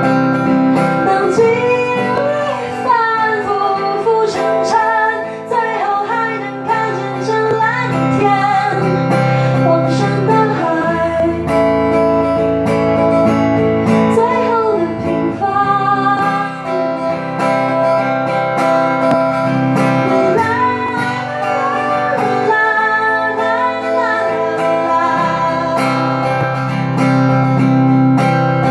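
Acoustic guitar strummed and picked in a live song's wordless passage, with a wavering melody line over the chords in places.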